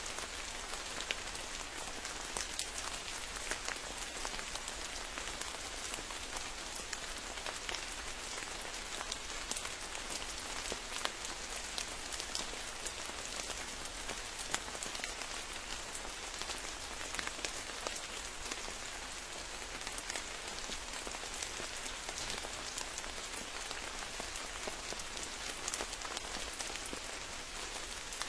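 Steady rain falling, with many separate drop hits heard as sharp little ticks over an even hiss.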